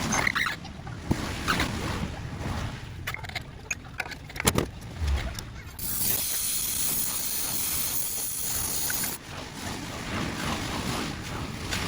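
Sped-up sounds of work on a car's exhaust: scattered knocks and clanks, with a steady hiss for about three seconds in the middle.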